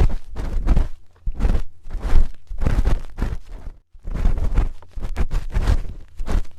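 Metal spoon scraping and rubbing against an ear microphone for ASMR ear cleaning, in repeated short strokes about two a second, each with a heavy low rumble from the microphone being handled.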